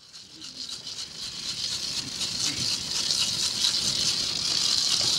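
Hand rattle shaken in a fast, steady rhythm, swelling up from silence over the first two or three seconds and then holding steady.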